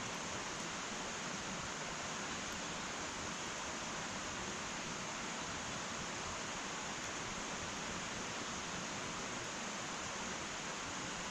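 Wood fire in an irori sunken hearth burning with a steady hiss and a couple of very faint ticks.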